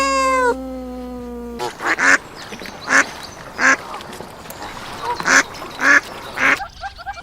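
Ducks quacking: about seven separate, irregularly spaced quacks. Before them, a long held animal call with a rising start stops about a second and a half in.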